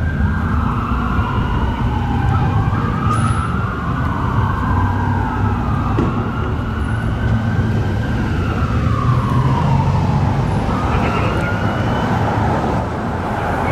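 Emergency vehicle sirens wailing, slowly rising and falling in overlapping wails, over the heavy low rumble of a fire apparatus diesel engine passing close by. The wail fades out near the end.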